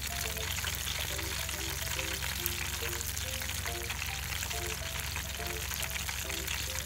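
Potato-starch-coated fish pieces shallow-frying in oil in an iron skillet on a camp stove, a steady crackling sizzle. Soft background music with a simple melody plays over it.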